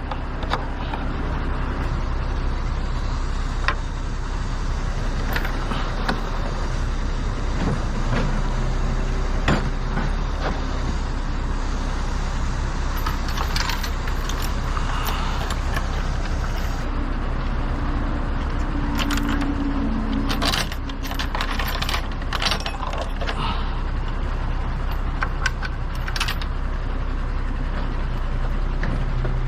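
Truck engine running steadily, with many short rattles and clinks over it.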